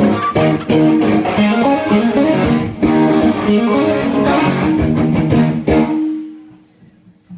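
A live band playing loud amplified music, led by electric guitar with bass. About six seconds in the playing stops and a last note rings out and fades.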